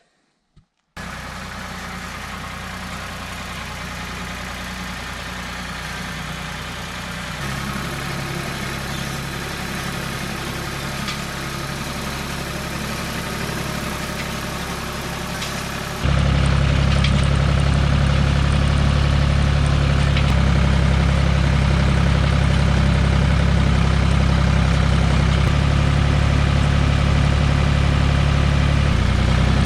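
Farm tractor engine running steadily with a low, even drone. It gets louder about seven seconds in, then jumps louder again suddenly about halfway through.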